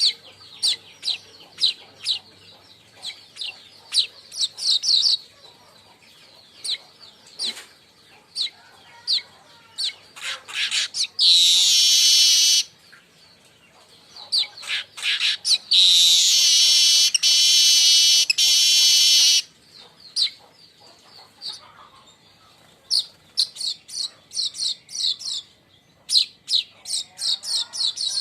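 Manyar (weaver bird) chattering: runs of short, sharp, high chirps broken by two long, buzzy, rattling trills, a short one about eleven seconds in and a longer one lasting about three and a half seconds from around sixteen seconds.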